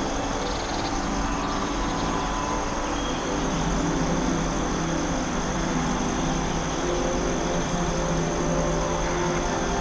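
Steady forest ambience: an even rushing noise that does not change, with a few faint held tones through it.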